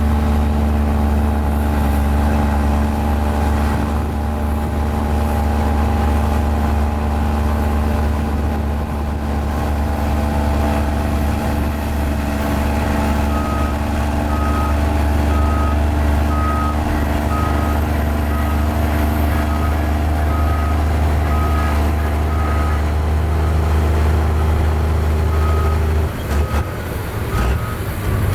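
Mini Komatsu bulldozer's diesel engine running steadily under load. About halfway through, its reversing alarm starts beeping about one and a half times a second as it backs up, pauses briefly, then resumes. The engine note drops a couple of seconds before the end.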